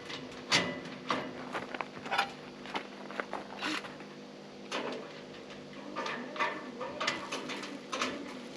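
Irregular light clicks and knocks of nuts, bolts and tools being handled during greenhouse frame assembly. The loudest knock comes about half a second in.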